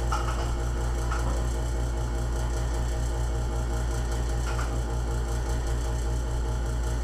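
An engine running steadily at idle, with an even low pulsing of about six or seven beats a second and a couple of faint ticks.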